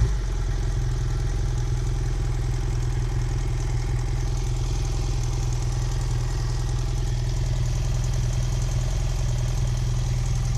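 BMW F800GS 798 cc parallel-twin engine idling steadily when hot, dropping back to idle right at the start. It makes a rattling noise that the owner suspects comes from the valves or a piston.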